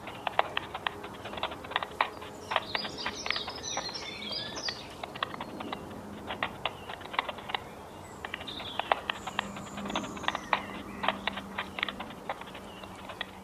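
Birds making rapid, irregular clicking sounds, with a few short high chirps mixed in.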